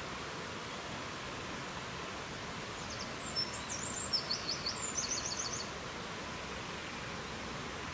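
A songbird sings one short phrase of rapid high notes, ending in a quick series of falling strokes, about three seconds in and lasting roughly three seconds, over a steady rushing forest ambience.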